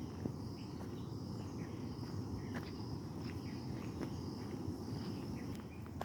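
Outdoor ambience of insects buzzing steadily at a high pitch, with short bird chirps now and then, over a constant low rumble.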